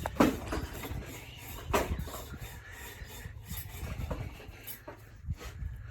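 Parts being handled on a workbench: rubbing and scraping, with a sharper knock about a quarter second in and another just under two seconds in.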